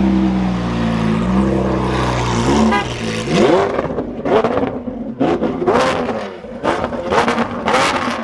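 Lamborghini Aventador SVJ's V12 running on a Novitec exhaust: a steady low note for about two and a half seconds, then a rev up. After that it is blipped again and again in short, quickening rises, with sharp exhaust pops and crackles between the revs.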